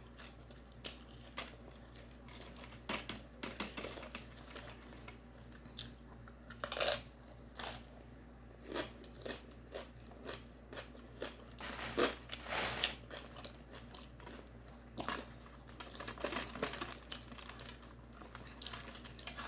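A person chewing and biting Mexican food close to the microphone: irregular crunches and mouth clicks, with louder bites about seven, twelve and fifteen seconds in.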